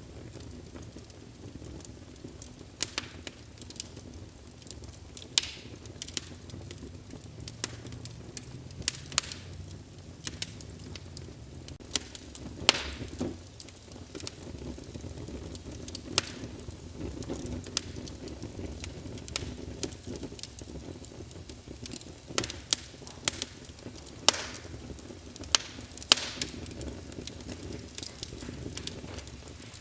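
Wood fire in a fireplace crackling: irregular sharp snaps and pops, a few much louder than the rest, over a low steady rumble of the burning logs.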